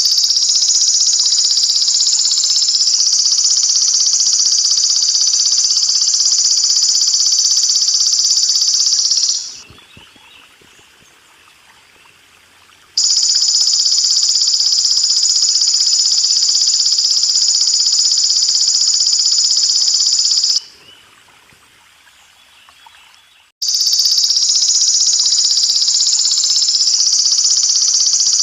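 Belalang emas (golden grasshopper) singing a loud, steady, high-pitched buzzing trill in long spells of about eight seconds. Each spell starts and stops abruptly, with pauses of three or four seconds between them in which only a faint sound of running water remains.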